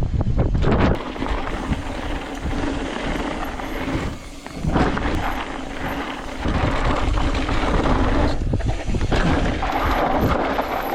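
Mountain bike riding down a dirt trail: tyres rolling over dirt and rock, with the bike rattling and knocking over bumps and wind buffeting the microphone. It eases briefly a little over four seconds in.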